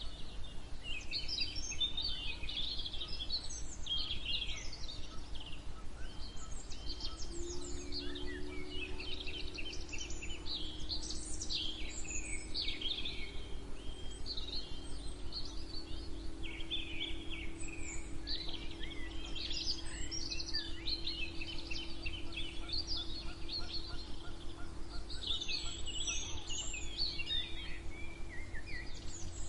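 A chorus of songbirds singing, with overlapping chirps, trills and whistles. A low steady hum comes in about seven seconds in and stays under the song.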